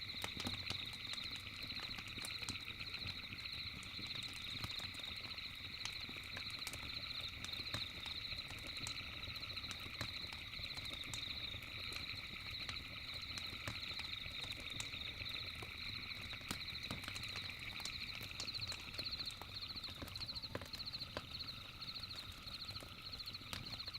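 Campfire crackling with many small scattered pops, over a steady, rapidly pulsing high chorus of night insects.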